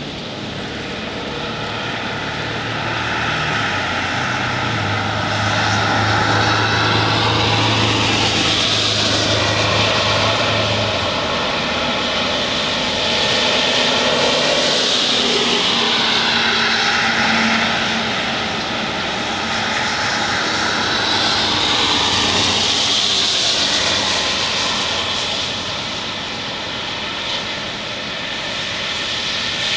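Strong storm wind rushing and gusting, swelling and easing in waves every several seconds. A low steady hum sounds under it for a few seconds about four seconds in.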